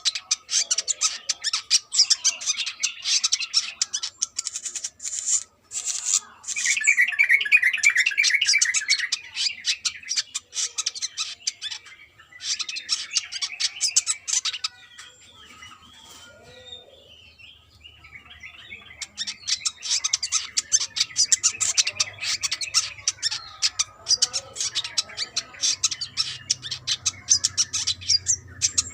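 Brown-throated sunbird singing, a rapid, stuttering chatter of high chirps in long bursts, with a quieter lull about halfway through.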